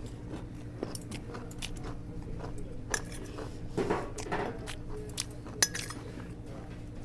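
Utensils clinking against bowls and dishes during a meal: scattered short clicks and clinks, one sharper clink a little past halfway, over a steady low hum.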